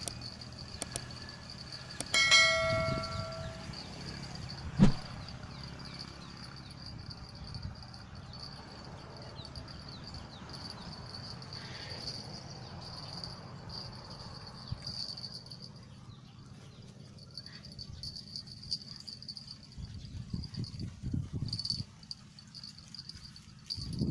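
Insects, crickets or cicadas, keep up a steady high-pitched drone. About two seconds in, a bell rings once and fades over a second and a half. A sharp knock follows a few seconds later.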